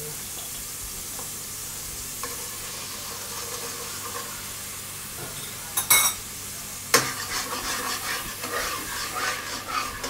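Chopped garlic sizzling in oil in a pan over a gas flame, a steady hiss. Utensils clatter sharply twice about two-thirds of the way in, followed by a few seconds of quick clinking and scraping against the dishes.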